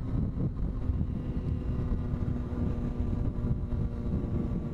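Motorcycle engine running at a steady, gentle cruise, heard from on board, with wind noise on the microphone.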